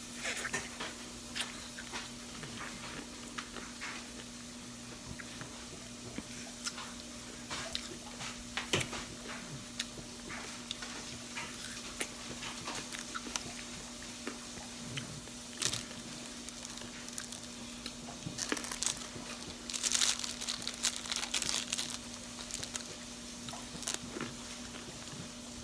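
Close-up biting and chewing of a candy-apple slice: crisp apple flesh and hard candy coating crunching in short snaps, with a louder run of crunching a little after twenty seconds in.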